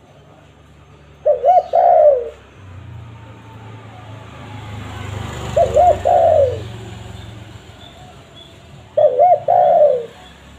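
Spotted dove cooing: three phrases about four seconds apart, each two short coos followed by a longer falling coo. A low rumble swells in the middle, and small birds chirp faintly.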